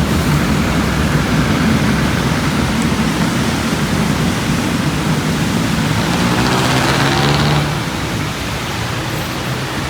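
Heavy rain hissing steadily over street traffic, with engines humming underneath. Between about six and seven and a half seconds in, a vehicle's engine note stands out as it goes by, and then the sound eases slightly.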